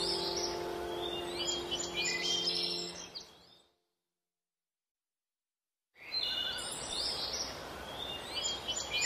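Birds chirping over an outdoor nature ambience, with held, sustained music notes fading out in the first three seconds. The sound then drops to total silence for about two and a half seconds before the birdsong comes back.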